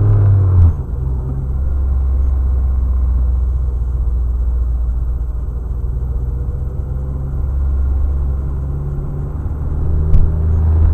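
Inside a 2008 Chevrolet Cobalt while driving: steady low engine drone and road rumble from its four-cylinder engine. The engine note shifts with a knock a little under a second in, and there is a sharp click near the end.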